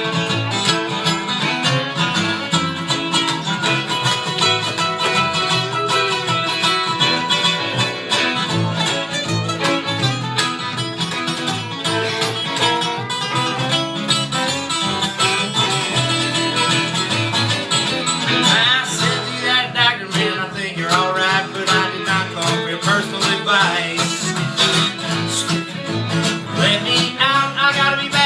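Live acoustic string-band music in bluegrass-folk style: picked guitar with a bowed fiddle line, the fiddle's wavering melody coming forward in the second half.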